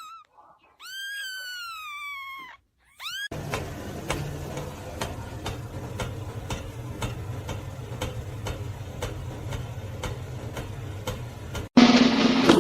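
A cat meowing once, a long call that falls in pitch. Then a steady low rumble with faint regular clicks, and near the end a sudden loud sound.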